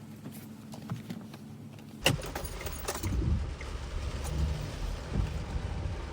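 A few faint clicks and a jingle of keys, then, about two seconds in, a sharp clack and the steady low rumble of a minivan running, with a few more knocks over it.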